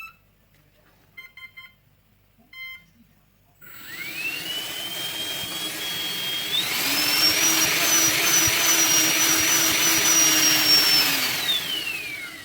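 Brushless motor fitted into an AEG CR7 cordless vacuum and run through an ESC: a few short electronic beeps, then about four seconds in the motor spins up with a rising whine. It runs steadily, steps up to a higher, louder whine a few seconds later, and winds down with a falling whine near the end.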